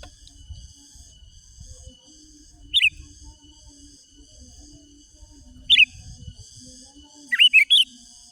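Sooty-headed bulbul (kutilang) calling in short, sharp, whistled notes: one about three seconds in, another near six seconds, and a quick run of three or four notes near the end. A steady high hum runs underneath.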